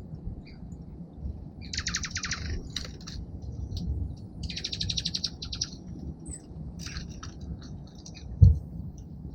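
Small songbirds calling at a bird feeder: scattered short high chips and two rapid chattering trills. A single loud thump comes near the end.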